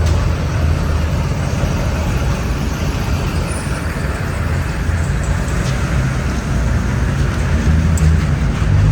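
Car engines running with a steady low rumble, getting a little stronger near the end.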